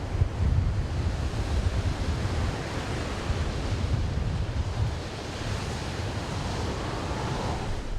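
Ocean surf washing steadily, with wind gusting on the microphone in a low rumble.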